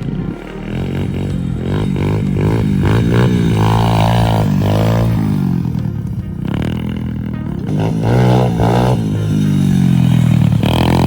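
Pit bike engine revving up and down as it is ridden, its pitch rising and falling several times.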